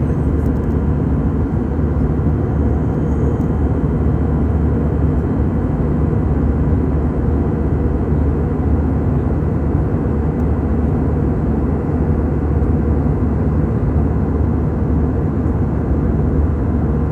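Steady, loud, deep rumble of an airliner in flight, heard inside the passenger cabin: engine and airflow noise that stays even throughout.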